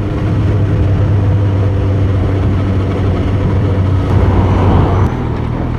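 Suzuki GSX-S1000's inline-four engine running steadily under way, with wind and road noise on the helmet-area microphone. The engine note shifts about five seconds in.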